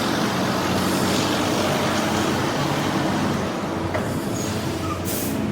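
A heavy vehicle's engine running steadily with an even low hum, and a short hiss about five seconds in.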